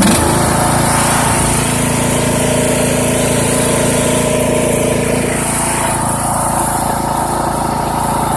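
Poulan Pro PP175G42 riding lawn tractor's engine running steadily at working speed while the tractor drives off in third gear towing a loaded cart. The engine gets sharply louder right at the start.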